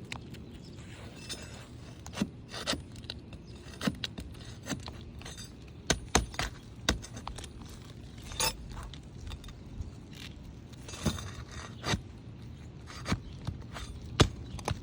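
Hand tools scraping and clicking against asphalt roof shingles in irregular strokes, typical of a flat bar and spatula being worked under a shingle to lift it.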